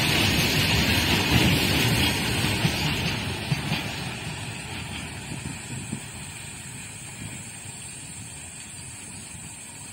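Goods train's last covered wagons and brake van running past on the rails, the wheels knocking over the track, then fading steadily from about three seconds in as the train moves away.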